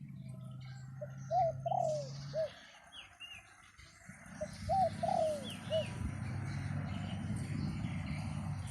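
A wild dove cooing: two short phrases of low, hooked coos a few seconds apart. A smaller bird chirps in between, and wind rumbles on the microphone in the second half.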